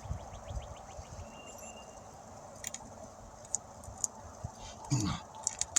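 Small, sharp clicks and ticks from a hand tool working at a piece of steel wire stuck in a tire's tread, trying to cut it out, over steady background noise.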